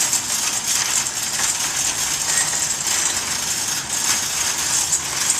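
Metal shopping cart rattling and jangling as it is pushed over pavement, a steady clatter of many small clicks.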